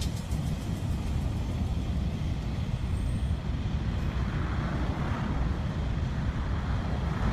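Train rolling past with a steady low rumble of wheels and cars on the track.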